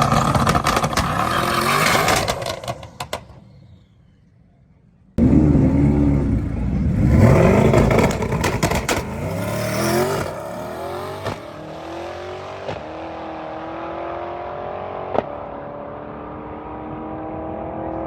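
Car engines revving and accelerating, cutting off about four seconds in to a second of near silence. Then an engine revs again, pitch swinging up and down, and settles into a steady, slowly rising pull, with a single sharp click near the end.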